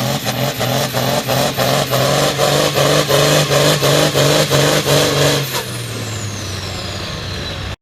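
Turbocharged diesel farm tractor under full load pulling a sled, running hard with a high turbo whine over a rapid, evenly spaced clatter. About five and a half seconds in the engine is let off, the clatter stops and the turbo whine slides down in pitch as the engine drops back.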